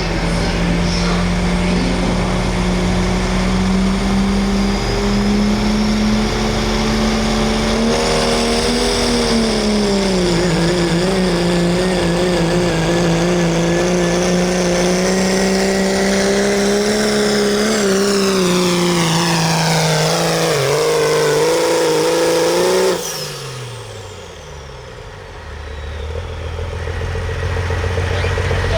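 Turbo-diesel pickup truck engine running at full throttle on a pull, held at high revs for over twenty seconds, its pitch sinking over the last few seconds. About three-quarters of the way in the throttle is cut suddenly; a high turbo whistle falls away and the engine drops to a low idle, then begins to build again.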